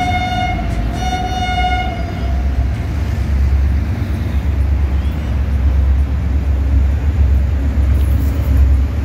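An HGMU-30R diesel-electric locomotive hauling an express train sounds two short horn blasts, the second starting about a second in. A deep rumble from the locomotive and train then grows louder as it approaches.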